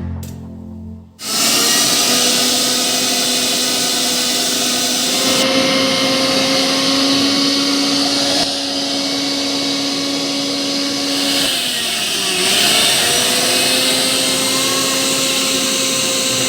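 Havells Klassic Black 750 W mixer grinder running at speed, a loud steady motor whine with a rush of air. About eleven seconds in, the pitch sags briefly and comes back up.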